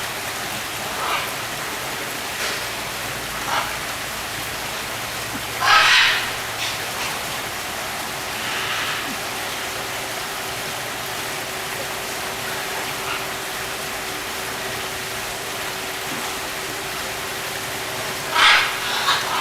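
Steady even hiss, with a few short high-pitched calls or cries over it. The loudest call comes about six seconds in, and another comes near the end.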